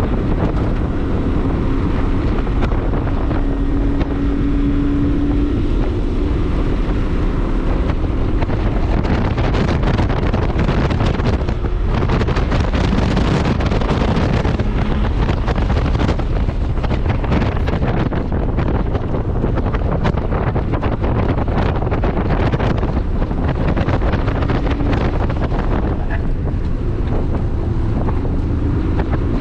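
Heavy wind buffeting on the microphone over the running engine of a modified 2001 Subaru Impreza 2.5RS with its flat-four, its note rising and falling faintly underneath the wind.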